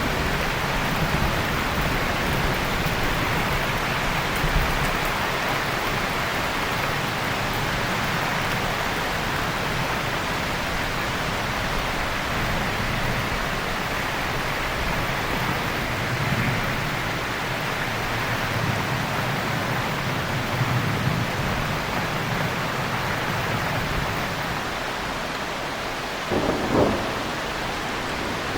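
Steady heavy rain with low rumbles of distant thunder swelling a couple of times around the middle. A short, louder thud comes near the end.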